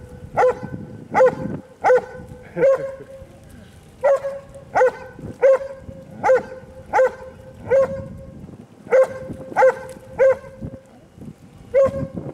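A dog barking over and over, one short bark about every 0.7 seconds, with two brief pauses.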